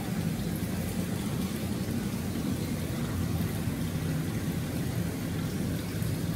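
Steady rushing of running water in the bathhouse, even throughout, with a low drone underneath.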